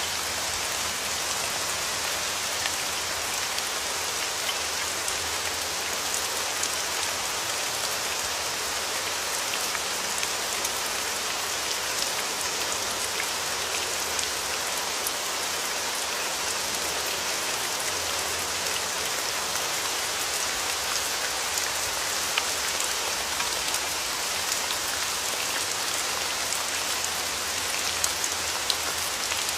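Steady rain falling: a dense, even hiss with many scattered sharper drop ticks.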